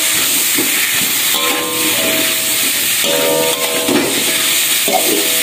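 Chicken pieces sizzling in hot oil in a metal wok as they are stir-fried, with the metal spatula scraping and knocking against the pan now and then. Background music with held notes plays over it.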